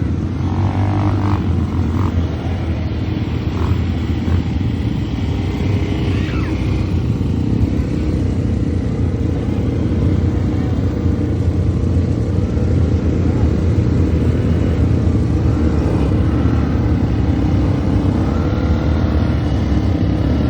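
Automatic ATV engine running steadily while being ridden, with faint voices now and then.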